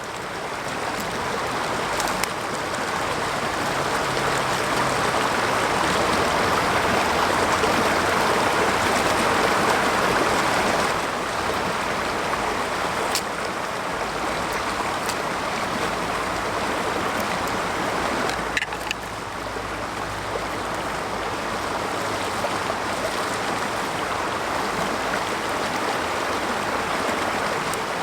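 Mountain stream rushing steadily. It swells over the first few seconds and drops a little about eleven seconds in, with a few sharp ticks on top.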